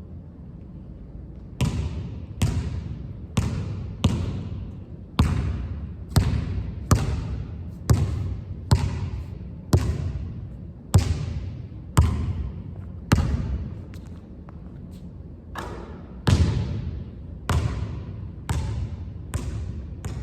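A basketball being dribbled on a hard court, each bounce a sharp slap with a ringing echo after it, about once a second. The bouncing starts a couple of seconds in, eases off briefly about two-thirds of the way through, then picks up again.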